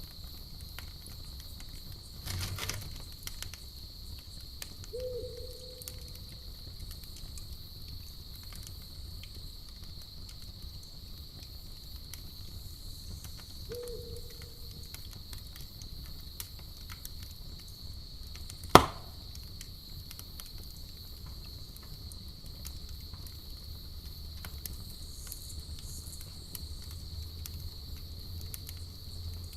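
Campfire crackling with many small ticks and one sharp, loud pop about two-thirds of the way through. A steady cricket chirring runs behind it, and two short owl hoots come about 5 and 14 seconds in.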